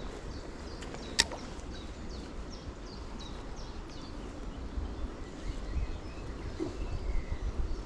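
Outdoor ambience: a low, uneven rumble with faint, repeated short bird chirps, and one sharp click about a second in.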